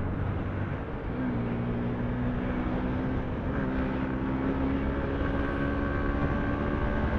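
Motorcycle engine running while riding, its steady note climbing slowly as the bike gathers speed, over road and wind noise.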